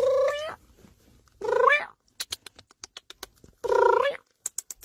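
A cat meowing: three drawn-out meows, each about half a second long, with short clicks between them.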